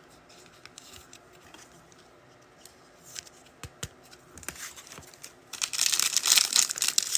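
Faint handling of trading cards with a few light clicks, then about five seconds in a trading-card pack wrapper is torn open with loud crinkling.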